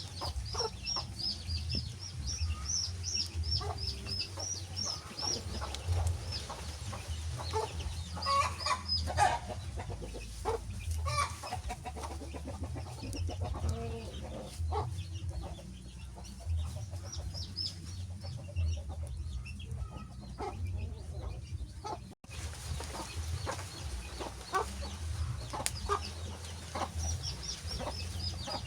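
Wood fire crackling with scattered sharp pops over a steady low rumble, joined by runs of quick, high chirps, most of all near the start and in the last few seconds.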